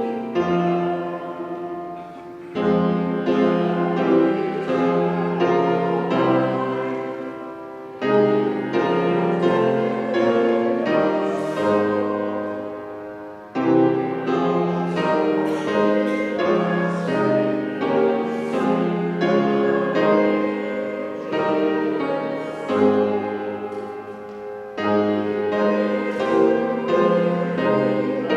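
Piano playing slow, chordal music in phrases, each one struck and then fading before the next begins.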